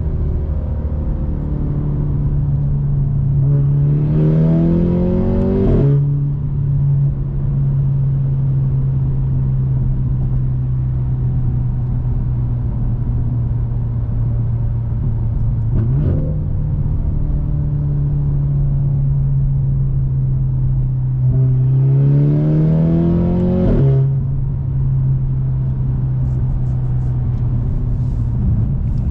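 Mercedes-AMG C43's turbocharged four-cylinder through a Fi exhaust with a catless downpipe, droning steadily at cruise. Twice the note rises for about two seconds under acceleration and drops sharply at an upshift, and a brief sweep in pitch comes about halfway through.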